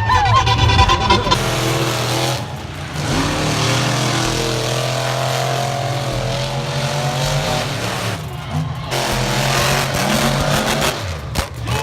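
Racing UTV engines running hard around the arena track, a steady engine drone that eases off twice and comes back.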